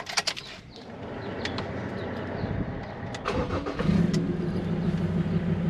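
Keys jangle as the ignition key is turned. A car engine then cranks briefly and starts a little over three seconds in, settling into a steady idle.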